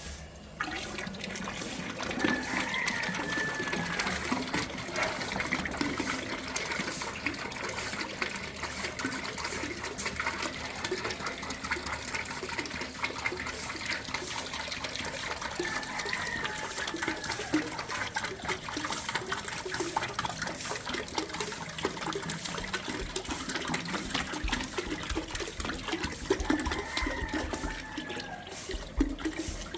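Water running and splashing steadily, starting about half a second in.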